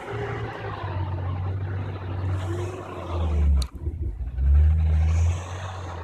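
Low rumble of road traffic, swelling louder twice in the second half, with a sharp click at about the midpoint.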